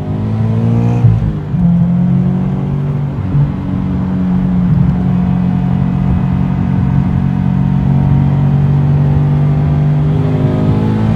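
Turbocharged Scion FR-S's 2.0-litre flat-four engine heard from inside the cabin, pulling up the on-ramp. Its pitch rises and drops with a gear change about a second in, holds steady through the middle, then climbs again near the end.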